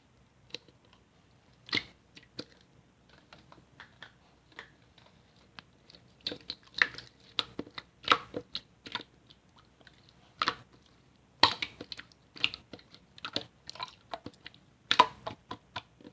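Slime being squeezed and poked by hand, giving irregular sharp clicks and pops, sparse at first and more frequent from about six seconds in.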